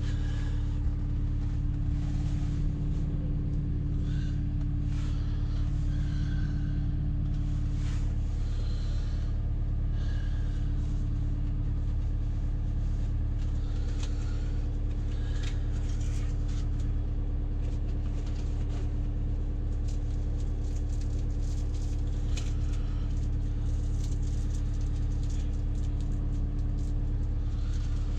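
Backhoe engine running steadily at a constant pitch, with scattered clicks and knocks throughout.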